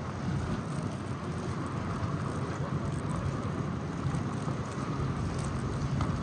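Steady street noise of wind and city traffic in a snowstorm, with wind rumbling on the microphone.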